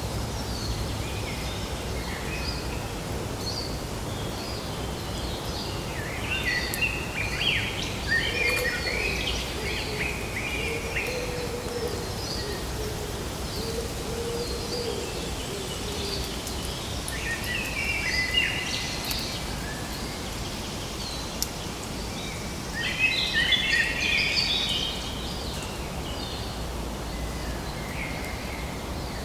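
Birds singing and chirping over a steady outdoor background noise, with three busier bursts of song: about a fifth of the way in, past the middle, and about four-fifths of the way through.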